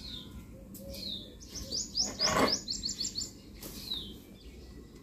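Small birds chirping: single high down-slurred chirps, and about a second and a half in a quick run of about ten repeated chirping notes.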